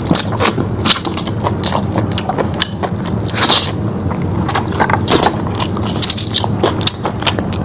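Close-miked eating of lamb meat: wet chewing, lip smacks and many short sharp clicks, with a longer hissy slurp or suck about halfway through. A steady low hum runs underneath.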